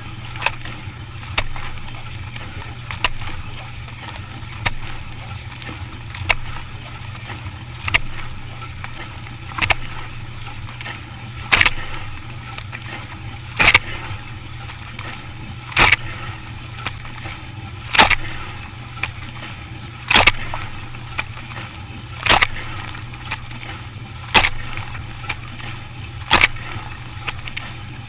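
A machine running with a steady hum, with a sharp knock about every two seconds and fainter clicks in between.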